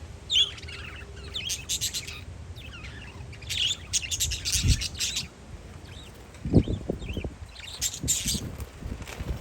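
Parakeets chirping in quick bursts of short, high calls, several times over, against a low rumble of wind on the microphone with a few low thumps of gusts.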